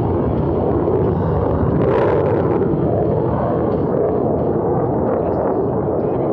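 Jet engine noise from a Blue Angels F/A-18 Super Hornet, a loud continuous rumble, with a brief sharper crackle about two seconds in.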